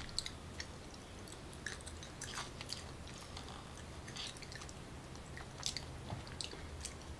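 Faint close-up chewing of soft takoyaki (octopus balls), with small scattered mouth clicks and smacks over a low steady hum.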